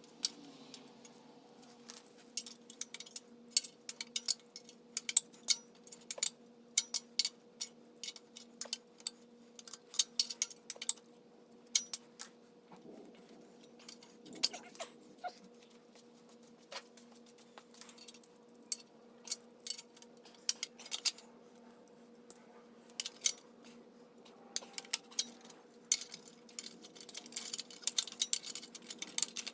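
Irregular metallic clinks and clicks of hand tools and engine parts being handled while a VW 1600 air-cooled engine is taken apart, over a faint steady hum.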